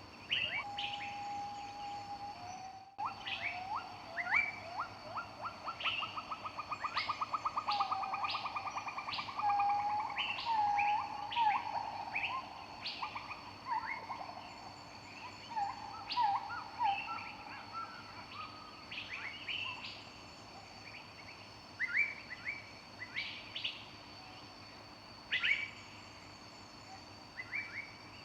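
Several songbirds singing, with overlapping short chirps and whistles and a fast trill in the first third.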